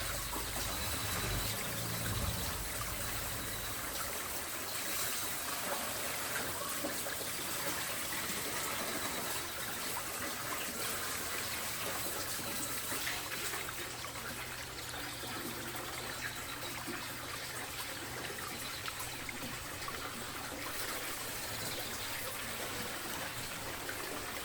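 Water running steadily in a continuous trickle.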